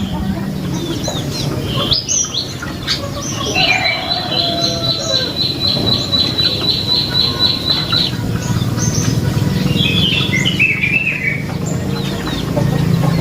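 Prenjak lumut birdsong: scattered sharp chirps, then a fast, even trill of high repeated notes, about six a second, lasting some four seconds, followed by a short run of chirps falling in pitch.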